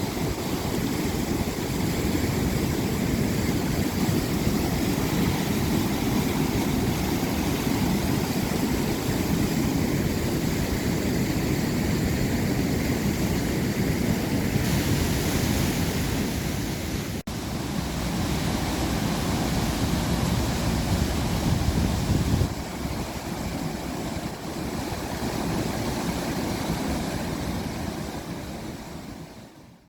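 Floodwater pouring over a river weir swollen by heavy rain: a steady, heavy rush of water. It breaks off for an instant about 17 seconds in, drops a little about 22 seconds in, and fades out at the end.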